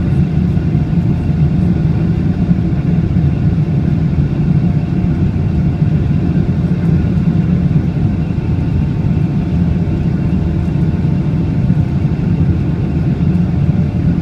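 Boeing 777-300ER's GE90-115B turbofan engines running steadily at high thrust during takeoff, a loud even rumble with a few faint steady tones above it.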